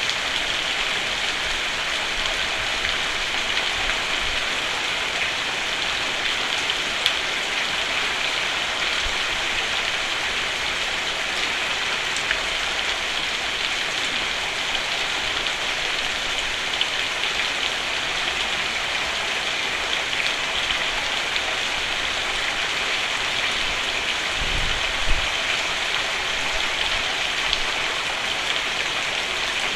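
Steady rain falling on a roof, an even hiss with a few single drops ticking out above it. There is a short low thud near the end.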